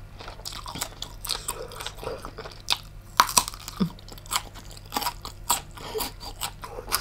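Close-miked chewing of tiger prawn meat: irregular crisp crunches and wet mouth clicks, several a second.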